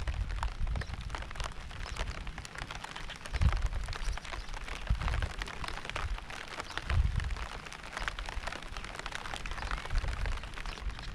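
Steady rain falling, a dense patter of fine drops, with low rumbles swelling several times, strongest about three and a half, five and seven seconds in.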